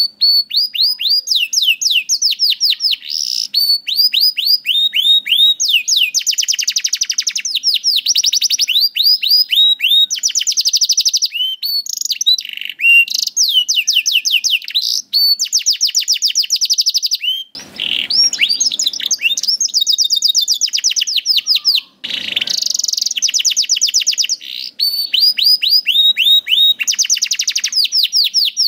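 Domestic canary singing a long, continuous song of rapid trills, each trill a fast run of short downward-sweeping notes, switching from one trill to the next every second or so. Two harsher, buzzier notes break in past the middle.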